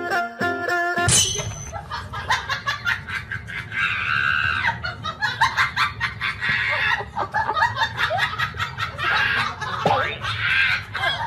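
Battery-operated crawling toy soldier's electronic sound effects: its tune stops about a second in and gives way to a rapid rattle of gunfire-like clicks and noisy electronic bursts.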